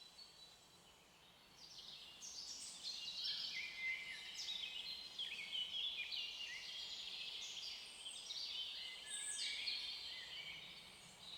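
Faint songbird chorus: many short chirps and trills, often falling in pitch, overlapping one another, starting about a second and a half in after a brief near-silence.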